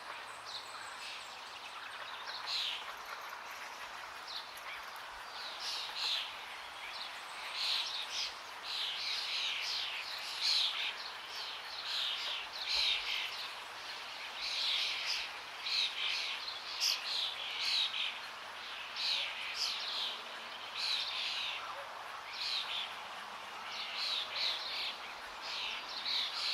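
Forest birds calling and chirping repeatedly, in short quick notes that come thicker after the first few seconds, over the steady rush of running water.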